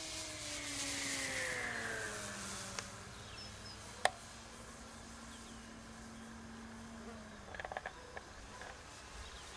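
Multiplex Blizzard electric hotliner's motor and propeller whining in flight. The pitch falls over the first two seconds as the plane passes and draws away, then a fainter steady whine holds until it fades near the end. A single sharp click sounds about four seconds in.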